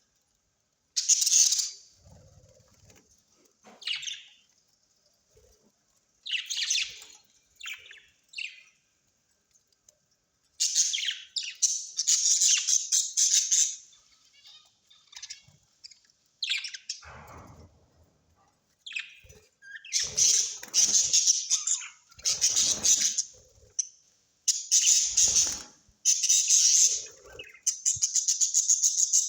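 Parrots giving harsh, screechy squawks in repeated bursts with short pauses between them, ending in a fast rattling chatter.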